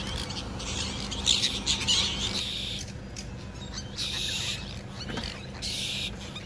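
A flock of birds calling in repeated short bursts of harsh, scratchy chatter, over a steady low hum.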